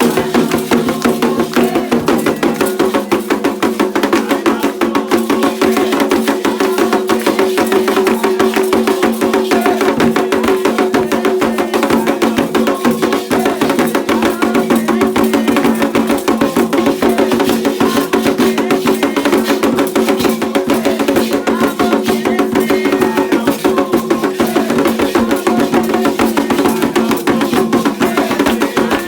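Candomblé ceremonial percussion: drums and struck percussion keeping a fast, dense, unbroken beat.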